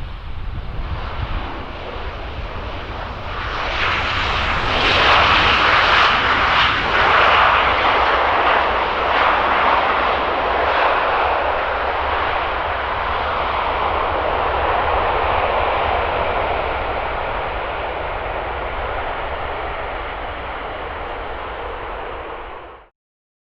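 Aircraft engine noise of a plane passing close by: it builds over a few seconds, peaks, then slowly fades, with wind rumbling on the microphone throughout. The sound cuts off abruptly near the end.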